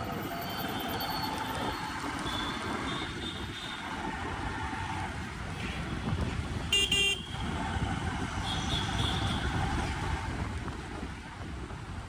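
Road traffic noise, with a vehicle horn honking once, briefly, about seven seconds in.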